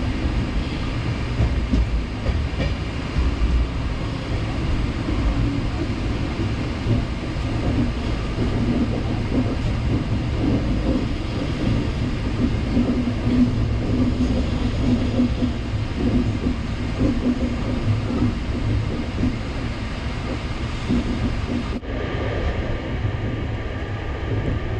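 Chennai Mail Express passenger train running along the line, a steady rumble of wheels and carriages with a faint hum. The sound changes abruptly about 22 seconds in.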